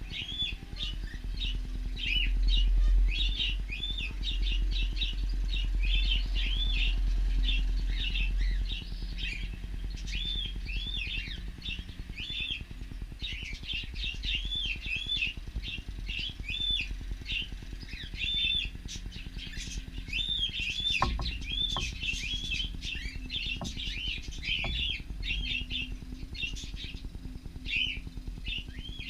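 A flock of cockatiels chirping continuously, with many short, overlapping calls. A low rumble runs under them for the first third, and a few faint knocks come about two-thirds of the way in.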